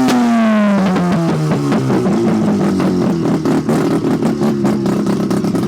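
A car engine is revved: its pitch falls over about two seconds as the revs drop back. It then settles into a loud, rapid, pulsing idle.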